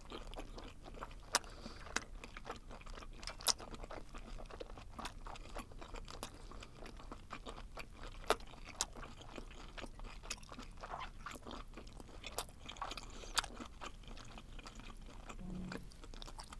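Close-miked mouth chewing of webfoot octopus: irregular sharp clicks of the chewy flesh, a few louder than the rest.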